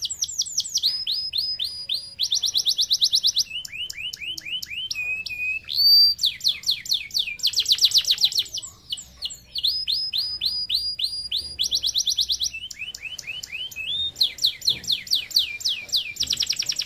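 Domestic canary singing a long, varied song: rapid trills and runs of repeated down-slurred notes, switching to a new phrase every second or two. A brief held whistle comes about six seconds in.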